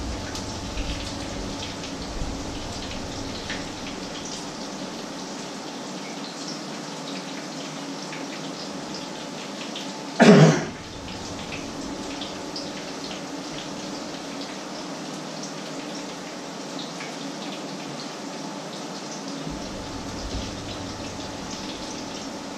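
Fritters shallow-frying in oil in two frying pans: a steady sizzle with scattered small pops. One short loud noise breaks in about ten seconds in.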